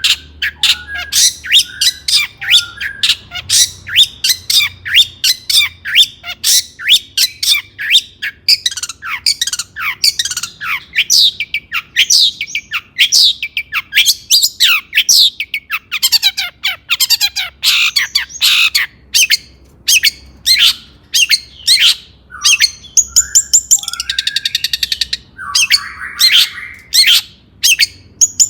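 Long-tailed shrike (cendet) singing: a fast, dense run of sharp, downward-sweeping notes, broken near the end by a harsh, raspy chatter.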